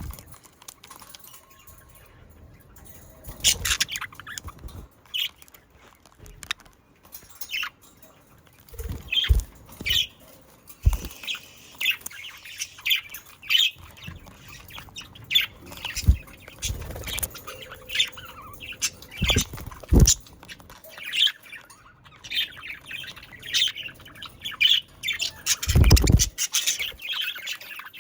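Flock of budgerigars chirping and chattering in many short, quick calls, busier from a few seconds in. Several dull thumps, the longest near the end, among the calls.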